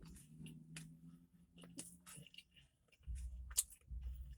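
Quiet chewing and wet mouth clicks of a man eating a chicken sandwich. A low closed-mouth hum runs through the first two seconds, and a low rumble comes in during the last second and a half.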